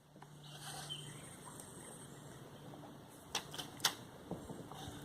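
Faint clicks and knocks from fishing tackle being handled while a lure snagged on a stick is worked free, with two sharper clicks about three and a half seconds in.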